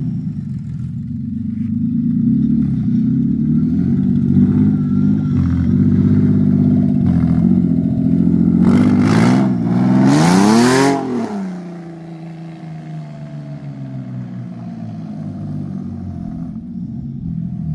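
Toyota 2JZ inline-six engine in a Mk3 Supra running as the car drives off, revving up and back down twice, the second rev with a loud rush of noise. The sound then drops to a lower, steadier level as the car pulls away.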